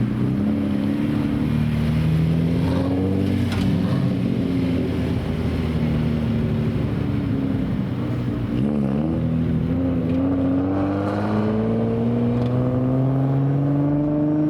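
Car engine running, its pitch shifting up and down, with a brief dip about nine seconds in, then a slow, steady climb in pitch over the last few seconds as it gathers speed.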